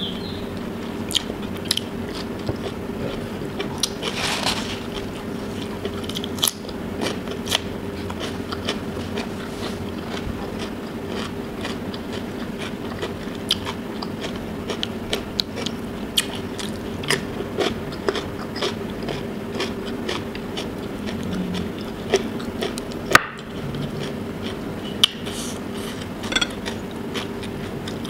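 Close-miked eating: chewing and crunching of food with many wet mouth clicks, including bites of crisp cucumber partway through. A steady low hum runs underneath.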